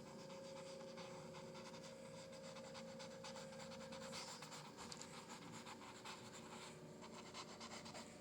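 Faint scratching of a paintbrush working acrylic paint on canvas, in quick repeated strokes that come thicker from about halfway through. A faint steady hum sits underneath for the first half.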